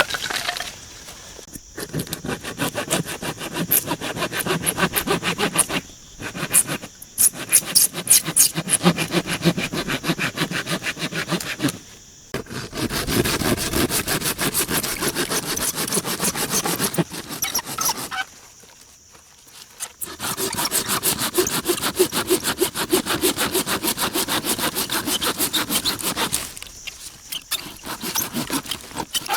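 Rapid rasping scraping in long bouts, broken by a few short pauses, the longest about two-thirds of the way through.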